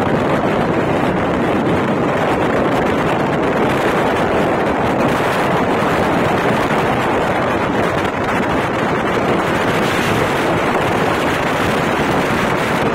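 Steady rushing and rumbling of the Swarna Shatabdi Express running at speed, with wind buffeting the microphone.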